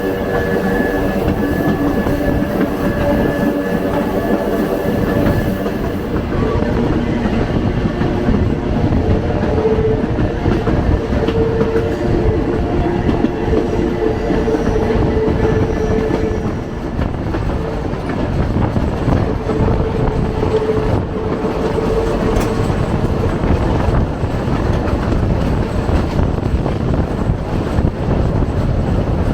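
Rolling noise of a moving passenger train heard from an open car's balcony: steady wheel-on-rail rumble and clatter, with humming tones that swell and fade in places.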